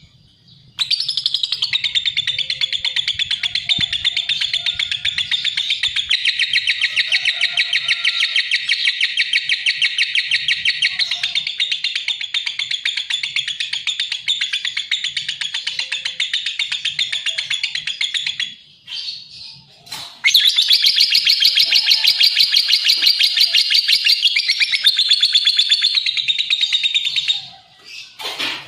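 Lovebird singing: a long, fast, unbroken chatter of high repeated notes. The chatter breaks off for about two seconds a little past the middle, then starts again and stops near the end.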